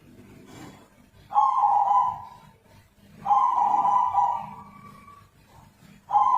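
Zebra dove giving an unusual call: long, steady coos on one note, three of them about two seconds apart, the last beginning near the end.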